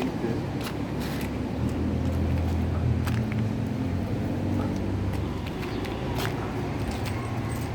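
A low, steady engine rumble from a motor vehicle, swelling in the middle and easing off, with scattered light clicks.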